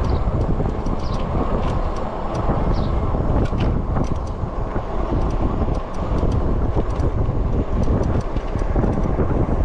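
Wind rushing over the microphone during a bike ride, a loud steady rough noise, with scattered light ticks and rattles.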